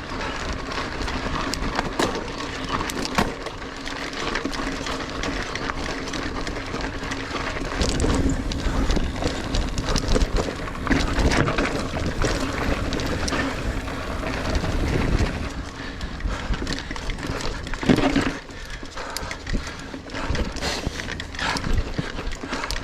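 Niner Air 9 RDO 29er hardtail mountain bike ridden over rooty singletrack: tyres rolling on dirt while the bike rattles and clatters over roots, with many short sharp knocks.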